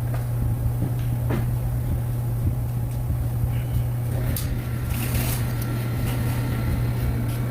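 Steady low hum of a running machine, with a few light knocks and a brief hiss about five seconds in.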